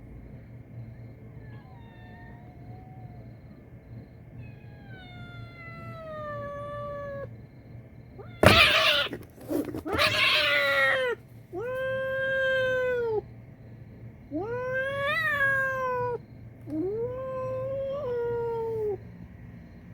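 A cat's faint falling meows, then a sudden harsh hiss about halfway through, followed by about four loud, drawn-out yowls. This is a territorial warning from a yard cat toward newcomer kittens.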